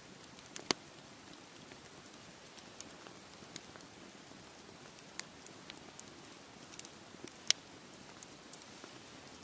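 Wood campfire crackling with scattered sharp pops, two louder ones about a second in and near the three-quarter mark, over a steady low wash of sea waves.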